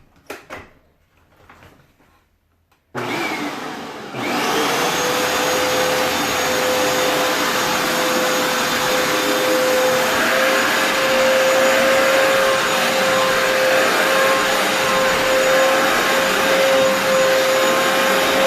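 Hoover FloorMate hard floor cleaner switched on about three seconds in. Its motor jumps in suddenly, steps up a second later with a rising whine, and then runs steadily with a constant whine over loud suction noise.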